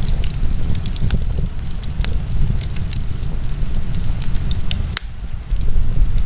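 Wood fire crackling in a fireplace: scattered sharp pops and snaps over a steady low rumble, which dips briefly about five seconds in.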